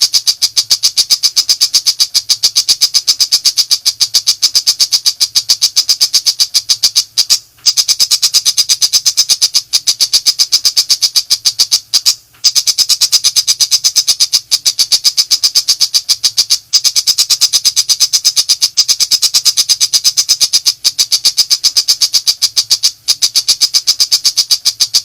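Pentet macan shrike calling in a long, rapid, unbroken string of sharp, high chattering notes, the fast 'nembak' delivery, broken by brief pauses twice. A faint low hum lies underneath.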